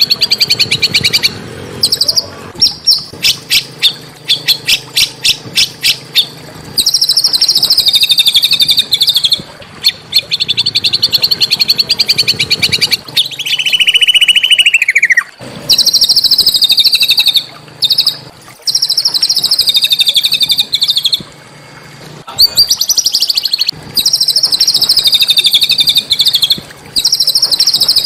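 Small songbird singing loud, rapid, harsh chattering trills in phrases a second or two long with short gaps between, opening with a run of sharp separate notes about two a second; one phrase near the middle drops in pitch at its end. This is rough, dense tutor song (masteran) of the kind played to teach a white-rumped shama.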